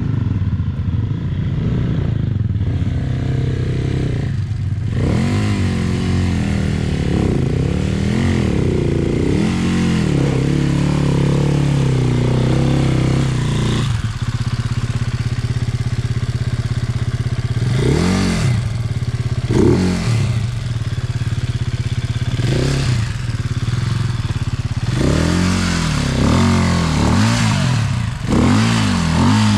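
Dirt bike engine running under repeated short bursts of throttle, the pitch rising and falling with each blip, and steadier running in between.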